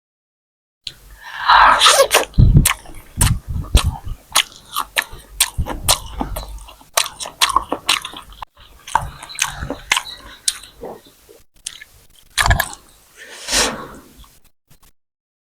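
Close-miked eating: biting and wet chewing with many sharp mouth clicks and smacks, starting about a second in.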